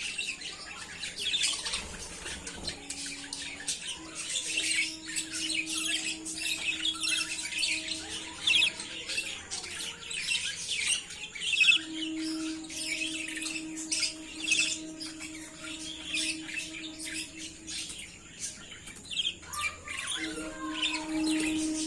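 Budgerigars chattering and chirping continuously in quick, overlapping warbles and squawks.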